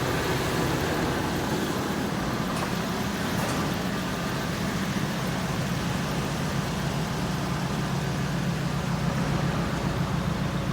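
1973 Chevrolet Camaro's 350 Chevy V8 idling steadily, still warming up after a cold start.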